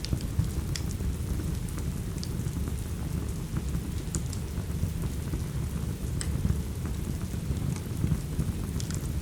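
Steady rain over a deep low rumble, with a wood fire crackling in a few sharp pops every second or two.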